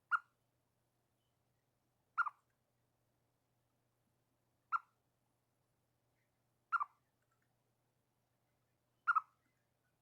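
Chipmunk giving its chip alarm call at birds: five short, sharp chirps about two seconds apart, some of them doubled.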